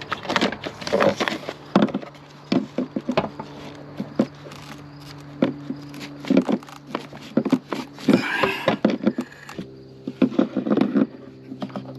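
Irregular clicks, taps and light clatter of hands and tools working among engine-bay parts, over a steady low hum that becomes fuller about ten seconds in.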